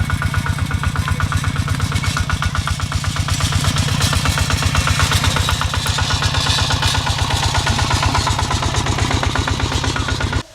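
Tractor engine running steadily with a rapid, even pulsing beat, stopping abruptly near the end.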